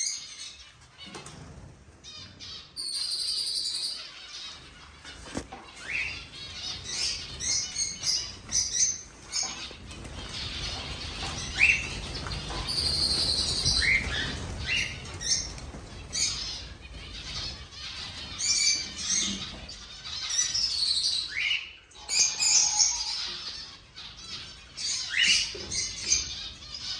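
Cockatiels chirping and calling, with short rising call notes repeated throughout, and wings flapping.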